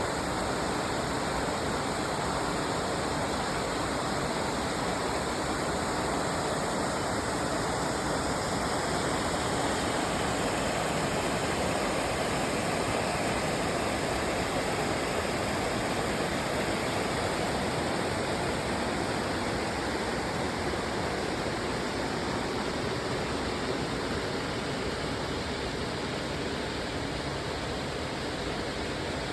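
A waterfall rushing steadily, a constant even roar of falling water.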